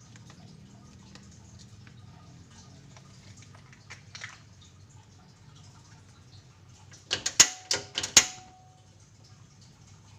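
Chicken cooking in a pan, with faint scattered small pops over a low steady hum. A little after halfway comes a quick run of about five sharp metallic clinks, the last one ringing briefly.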